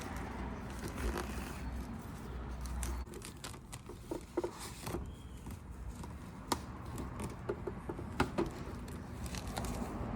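Scattered clicks, taps and rustling of things being handled, over a low hum that fades after about three seconds.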